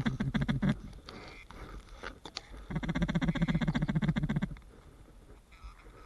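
Rapid duck-like chatter of quick repeated quacks, in runs of about two seconds: one at the start, one in the middle, and a quieter stretch near the end.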